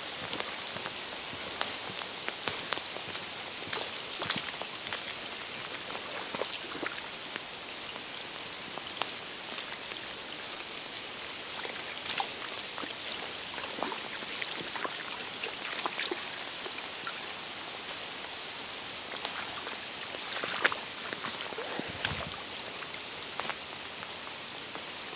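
Steady rain falling on a wet paved path and puddles, with many sharp, close ticks throughout.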